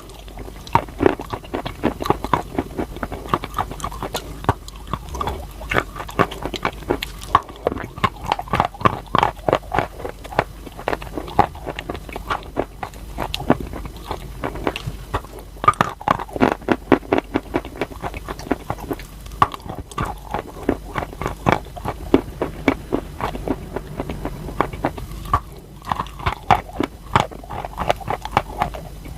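Close-miked biting and chewing of crunchy chalk: a dense, continuous run of sharp crunches and crackles, with a few short breaks between bites.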